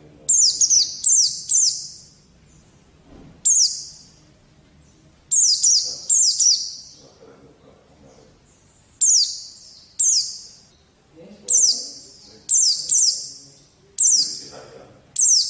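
White-eye (pleci) calling: short, sharp, high descending chirps, mostly in quick groups of two to four, repeating every second or two. This is a masteran tutor recording played to young white-eyes to draw them into singing.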